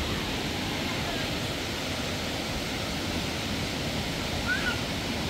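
Steady rushing outdoor noise, even and unbroken, with one short faint chirp about four and a half seconds in.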